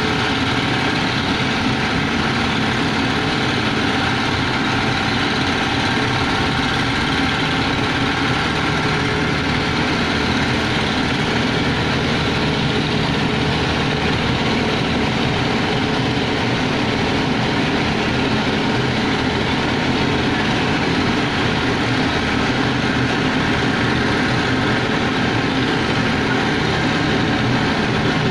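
Large engine running steadily at constant speed, with no change in pitch or load.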